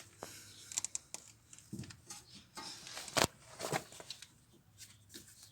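Brake caliper on a worn, loose guide pin clacking as it is moved: a few irregular sharp metallic knocks, the loudest about three seconds in, over light handling noise. The play in the guide pin is the cause of the dull metallic knocking in the front suspension.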